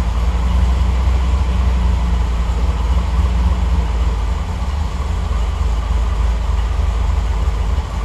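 Triumph TR8's V8 engine idling steadily while still warming up from a cold start, running on warm-up enrichment under Megasquirt fuel injection, with the mixture just trimmed richer after running a little lean.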